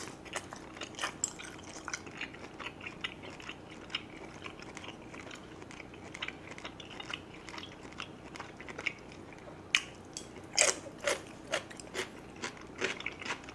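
Close-miked eating sounds: chewing beef, noodles and kimchi, a steady run of small wet clicks and mouth smacks. A few louder, crisper bites come about ten seconds in and again near the end.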